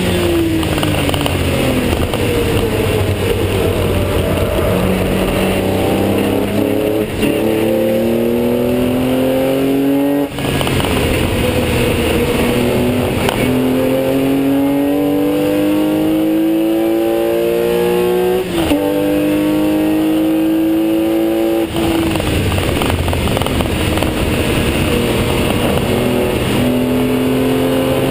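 Porsche 996 Carrera 2's 3.4-litre flat-six at full throttle, heard from inside the stripped, caged cabin. The engine note climbs steadily in pitch, breaking off and dropping about four times at gear changes and lifts. Loud tyre, road and wind noise runs underneath.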